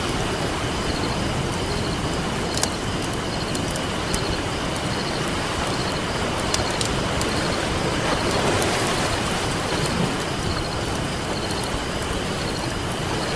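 Ocean surf washing steadily, with a wave swelling about eight seconds in, under a campfire crackling with several sharp pops.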